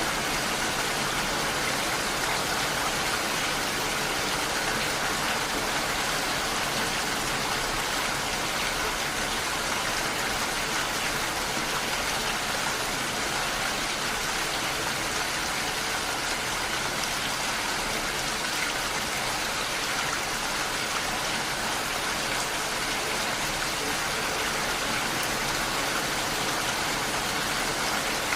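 Heavy rain falling steadily, an even hiss of rain with no separate drops or breaks.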